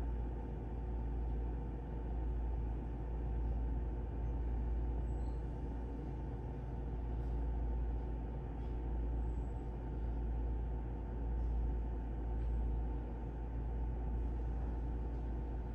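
Steady low rumbling hum that swells and eases slightly in level, with no clear strokes or rhythm.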